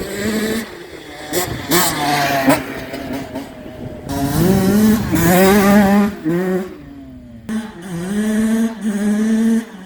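2007 Honda CR85's 85 cc single-cylinder two-stroke engine revved in repeated throttle blips, its pitch rising and falling. There is a longer rev about four to six seconds in, and it drops back briefly around seven seconds before revving again.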